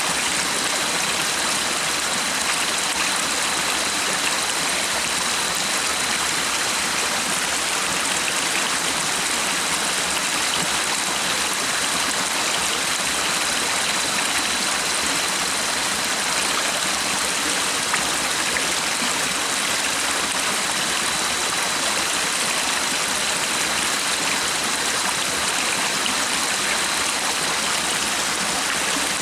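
A stream flowing steadily, an even rushing hiss of water with no break or change.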